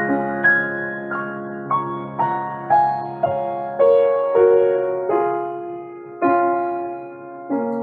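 Piano playing a slow, gentle melody over sustained chords, each note struck and fading away, with the notes coming further apart toward the end as the piece slows.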